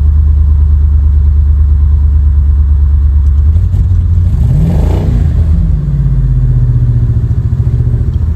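Land Rover Discovery 2's 4.6-litre V8 running just after a cold start in sub-zero cold. It idles steadily, rises in pitch in a brief rev about four seconds in, then falls back and settles at idle.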